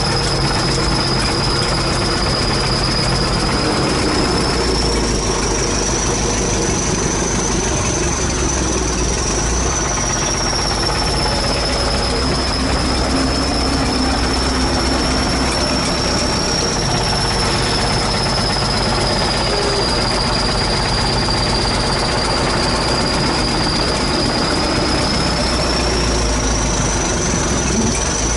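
ChTZ T-170 crawler bulldozer running, a loud, steady diesel rumble with a metallic, train-like clatter. Over it sits a thin high whine that drifts slowly up and down in pitch.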